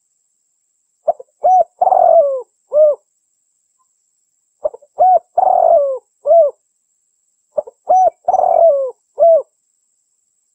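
Female derkuku (spotted dove) cooing: three phrases about three seconds apart. Each phrase has a couple of short coos, a longer coo that falls in pitch, and a short closing coo.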